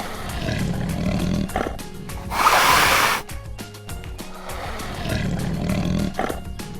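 Tiger roaring: a low rumbling growl builds into a loud, full roar about two and a half seconds in, then the rumbling growl starts again near the end. Light background music plays underneath.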